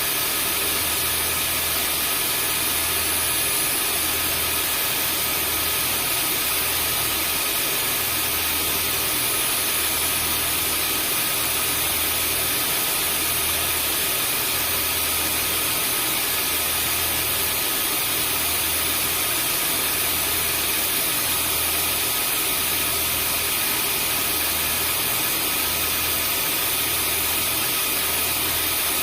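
Vacuum cleaner running steadily: the motor's whine and a broad rush of air, with a low hum underneath that swells and fades about once every second and a half.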